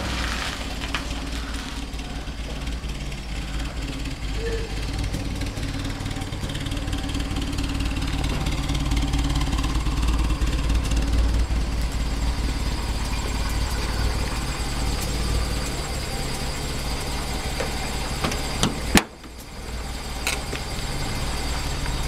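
Peugeot 203's four-cylinder engine idling steadily. Near the end there is a single sharp knock, after which the sound briefly drops away.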